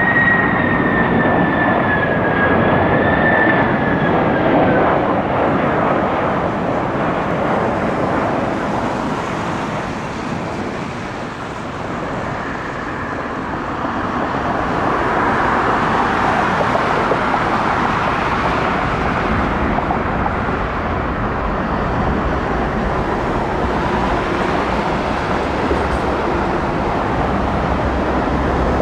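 Jet airliner engines: a high whine over a broad, steady rush during the first few seconds, the rush dipping briefly and then swelling again.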